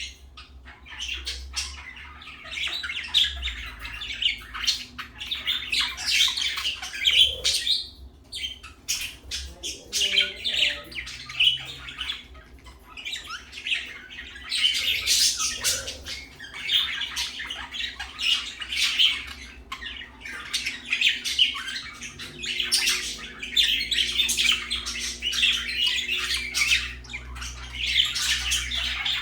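Budgerigars (parakeets) chattering and chirping without pause, a dense run of short squawks and tweets with a brief lull about eight seconds in.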